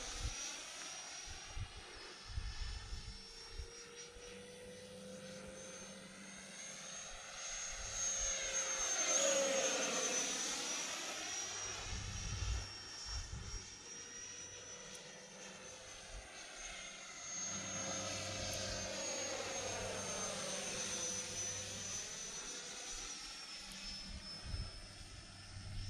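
E-flite F-16 70mm electric ducted-fan RC jet in flight: a steady high whine that swells and drops in pitch as the jet passes, loudest about nine seconds in and again around twenty seconds.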